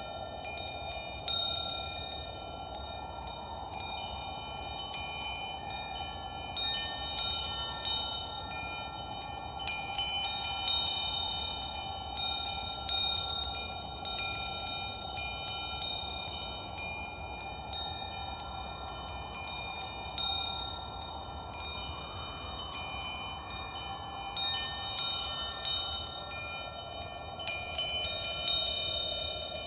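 Chimes struck at irregular moments, each ringing on at a few fixed pitches over a steady airy whoosh, with louder strikes about ten and thirteen seconds in and near the end.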